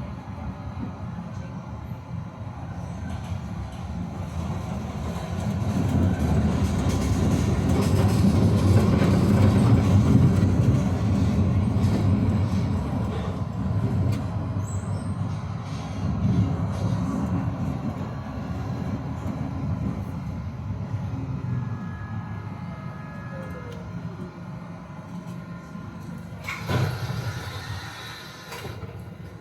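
Tram running on its rails: a low wheel and motor rumble builds to a peak about a third of the way in, then eases off with a falling whine as it slows. A brief loud burst of noise comes near the end.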